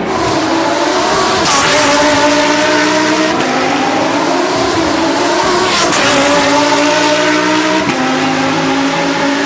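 Lamborghini Super Trofeo race cars' V10 engines running hard at high revs, a steady multi-tone engine note that jumps in pitch abruptly a few times.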